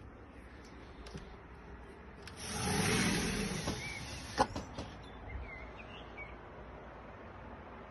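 Outdoor ambience: a swell of noise that rises and fades a couple of seconds in, with a sharp click near its end, and a few faint bird chirps.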